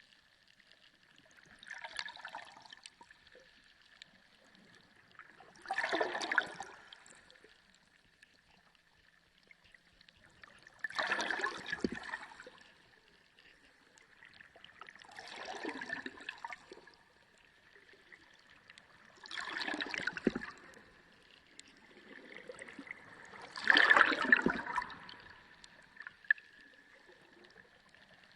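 Underwater sea ambience: water gurgling and surging in six bursts about four seconds apart, the fourth-last and last the loudest, over a faint steady high hum.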